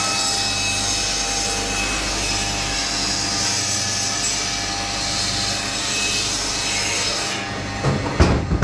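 Butcher's electric saw cutting through frozen yak meat: a steady grinding rasp that stops about seven seconds in, followed by a few knocks.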